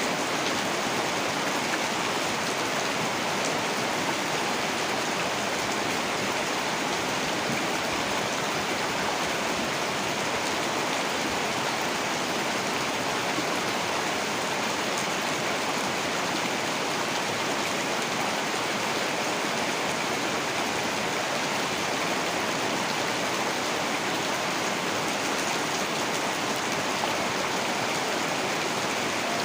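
Heavy rain falling steadily, a dense, even hiss of rain with no breaks.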